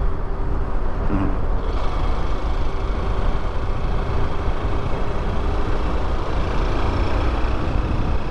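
Motorcycle riding along, with wind rushing over the microphone and the engine's steady hum underneath.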